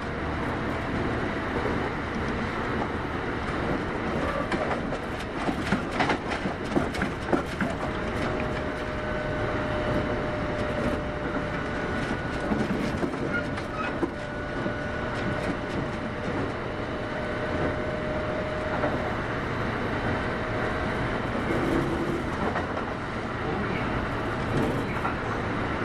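Kintetsu 8810 series electric train running at speed, heard from inside the car: a steady rumble of wheels on rail, with a run of sharp rail-joint clacks about five seconds in and a faint steady whine.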